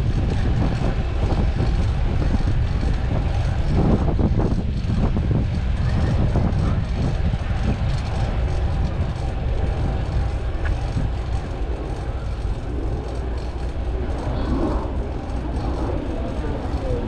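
Steady low rumble of vehicle traffic noise.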